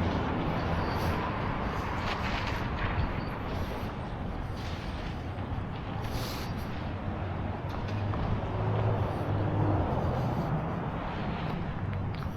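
Steady hum of passing and idling vehicle engines, swelling for a couple of seconds in the second half, with a few brief small noises over it.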